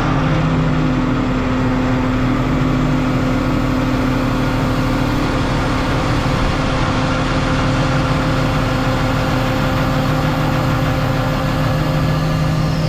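Diesel engine of an excavator carrying a grapple saw, running steadily with a constant hum and several held tones, one of which fades out about halfway through.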